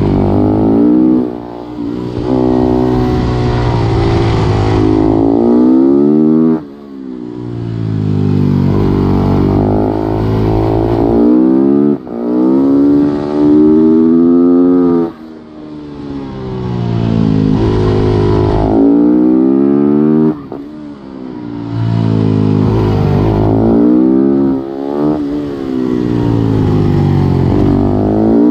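Supermoto motorcycle engine heard from on board, revving hard through the gears: the pitch climbs, dips briefly at each upshift and climbs again, then drops off sharply as the throttle closes for a corner, several times over.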